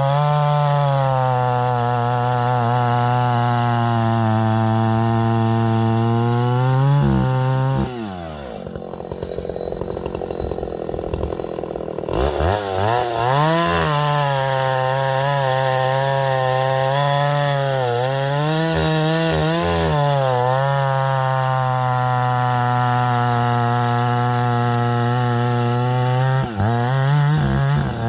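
Vintage Husqvarna L65 two-stroke chainsaw running at full throttle through a cut in ash firewood, then dropping to idle about eight seconds in. Around twelve seconds it revs back up for another long cut, its pitch dipping briefly under load, and falls back toward idle near the end.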